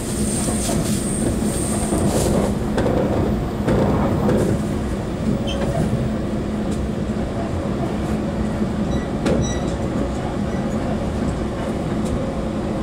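Running noise inside the motor car of a JNR 183/189 series express EMU, heard from a seat near the bogie: a steady hum of the DC traction motors and wheels on rail, with a few clicks over rail joints and a brief faint high squeal near the start.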